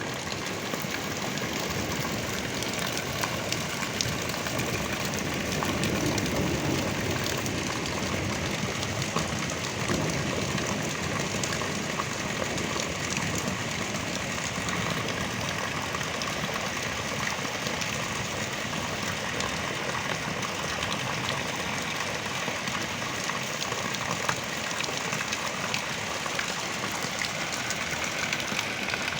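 Heavy rain pouring down in a steady downpour, the rush of many drops hitting the ground and running water.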